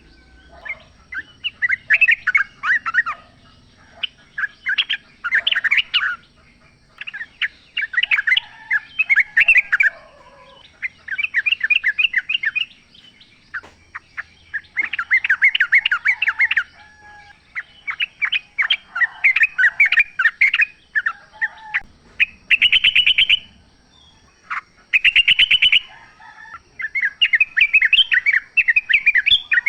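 Yellow-vented bulbul (trucuk) singing: short bubbly warbling phrases repeated every second or two, some overlapping as from more than one bird.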